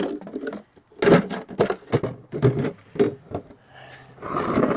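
Loose engine bolts and small metal parts being handled and set down, a series of irregular clinks and knocks.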